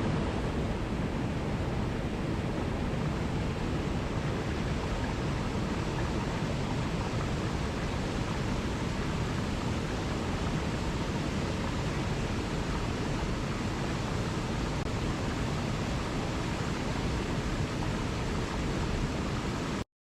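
Waterfall rushing: a steady, even roar of falling water with no distinct splashes, which cuts off suddenly near the end.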